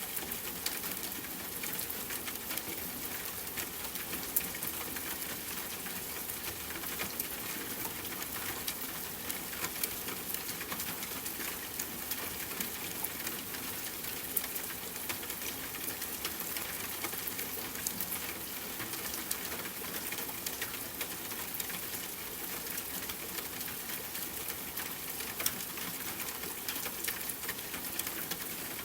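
Steady rain pattering on a tent, mixed with campfire crackling: a dense run of small ticks, with a few sharper pops.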